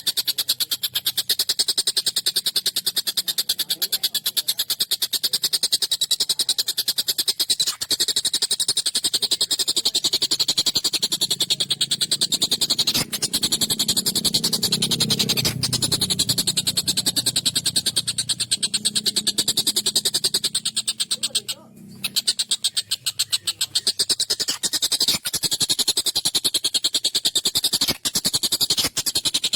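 Tengkek buto (collared kingfisher) calling non-stop in a fast, harsh chattering stream of notes, with a brief break a little past the middle.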